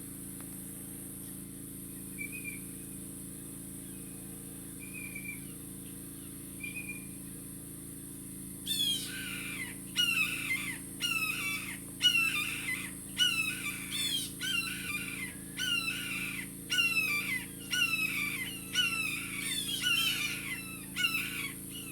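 Blue jays giving harsh, downward-sliding jeer calls in a rapid series of about one or two a second, starting about nine seconds in after a few faint short calls: the jays are mobbing a red-tailed hawk.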